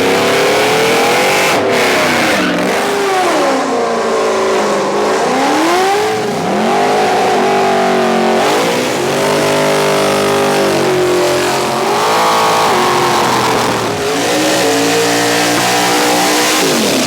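High-performance car engine revving hard, its pitch climbing and dropping again and again, then cutting off suddenly at the end.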